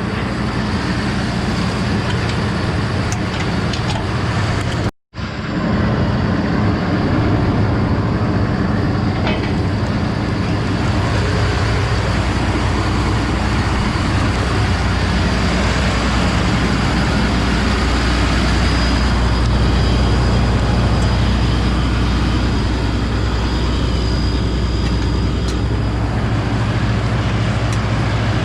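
Large diesel engine of heavy farm machinery running steadily at a constant speed. The sound breaks off completely for a moment about five seconds in.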